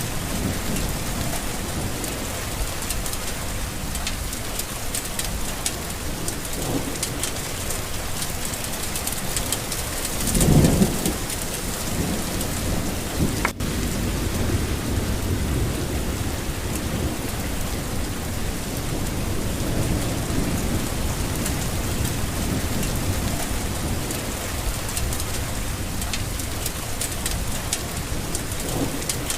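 Steady heavy rain with a low rolling rumble of thunder, which swells loudest about ten seconds in. A single brief click about thirteen seconds in.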